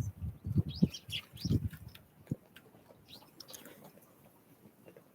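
Small songbirds at a winter feeder giving short high chirps, a cluster in the first two seconds and more around three to four seconds in, with low rustling thumps early on that die away after about two seconds.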